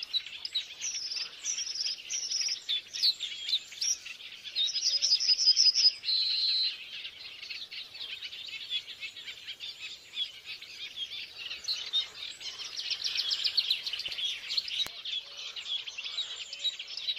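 Birds calling: a dense mix of high chirps and quick trills, with a loud rapid trill and a short held note around five to seven seconds in, and another fast trill later.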